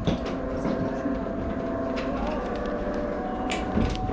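Rotating-floor cable car cabin in motion: a steady low rumble of the car running, with a few faint clicks and knocks.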